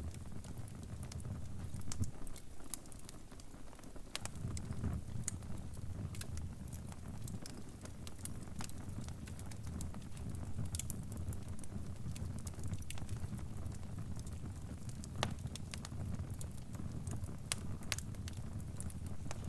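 Crackling fire: a steady low rumble of burning with scattered sharp pops and snaps at irregular intervals.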